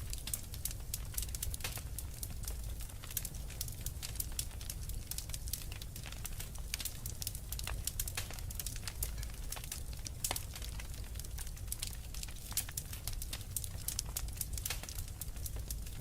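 Wood fire crackling, with frequent sharp, irregular pops over a low steady rumble.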